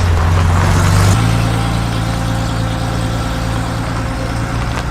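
A car engine running steadily at idle, its low tone changing abruptly about a second in and then holding steady.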